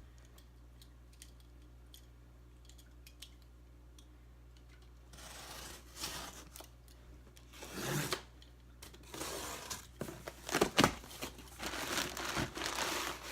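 A cardboard shipping box being torn open: packing tape ripping and packing material rustling and crinkling, starting after about five quieter seconds of light handling clicks, with the sharpest tears roughly two thirds of the way through.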